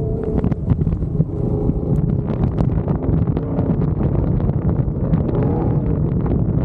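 Truck engine running under load while driving over rough dirt, with wind buffeting the microphone and scattered knocks and rattles from the ground. The engine pitch rises and falls briefly about five seconds in.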